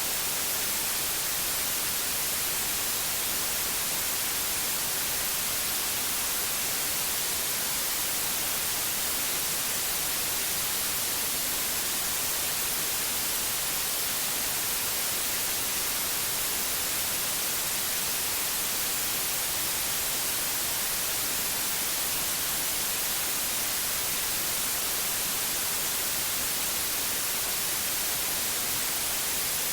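Steady synthetic white noise: an even, unbroken hiss, brightest in the treble, with no changes or events.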